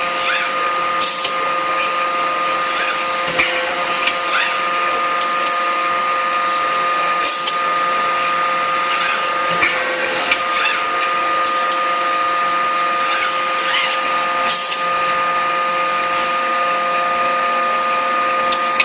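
Forging-shop machinery running with a steady whine of several pitches, broken every two to four seconds by short bursts of high hiss.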